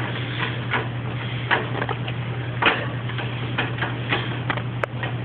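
Irregular light clicks and taps of a parrot's beak working at a food container it is being coaxed to open, over a steady low hum.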